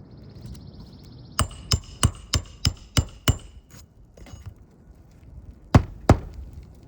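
Hammer striking a metal pry bar to release roofing nails under an asphalt shingle: a quick run of seven ringing blows, then two harder blows close together near the end.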